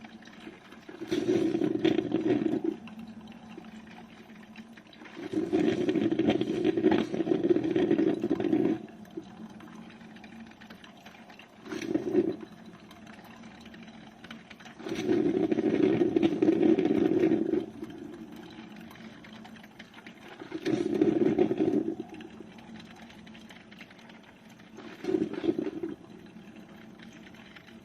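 GEVI 12-cup drip coffee maker brewing. Its sound comes in bursts lasting one to a few seconds, about every four to five seconds, with a quieter hum between them.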